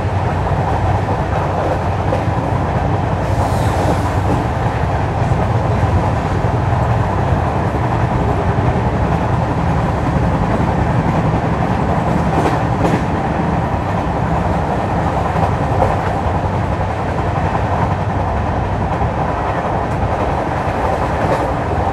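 LHB passenger coach running along the track, heard from inside at a window seat: a steady rumble and rattle of wheels on rails, with a few faint clicks past the middle.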